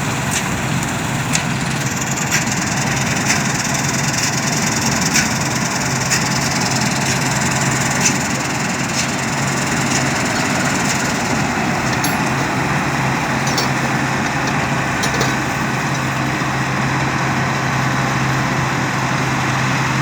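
New Holland 8070 combine harvester running steadily: a continuous engine drone with a steady low hum and scattered light clicks.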